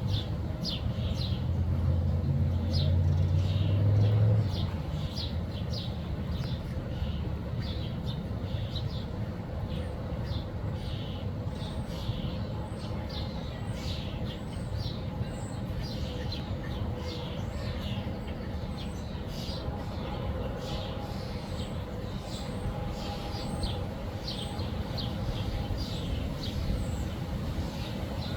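Backyard songbirds giving many short, high chirps throughout, over a steady low rumble, probably road traffic, that is loudest for the first four seconds or so.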